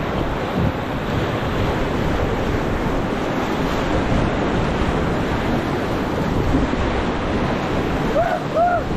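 Whitewater rapid rushing and crashing around a raft, with wind buffeting the microphone. Near the end, a few short shouts rise out of the water noise.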